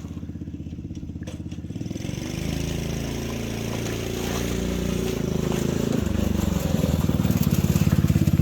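Small go-kart engine running, its pitch shifting and getting louder from about six seconds in.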